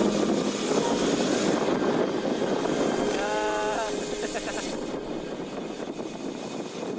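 Wind and road noise rushing past the microphone while riding a road bike downhill, slowly easing off. A brief pitched sound, like a distant voice or call, comes about three seconds in.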